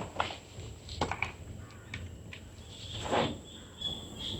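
Wetland ambience: a steady high insect drone, a few light knocks and rustles, and a thin high call repeated several times from about two-thirds of the way through.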